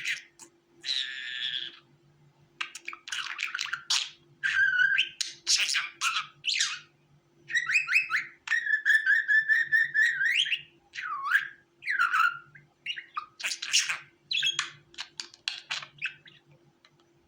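Budgerigars chirping and warbling in quick, varied calls, with a longer held warble about halfway through followed by two falling calls.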